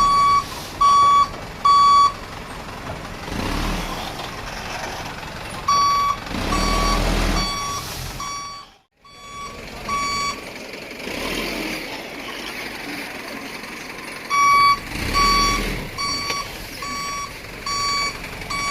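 Dump truck's reversing alarm beeping about twice a second, in runs that stop and start, over the truck's engine swelling up and down. The sound cuts out completely for a moment about nine seconds in.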